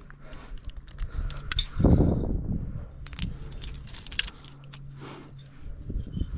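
Metal climbing gear (carabiners and quickdraws on a harness) clinking and jangling in scattered sharp clicks as the climber moves up the rock, with a louder low rumble about two seconds in.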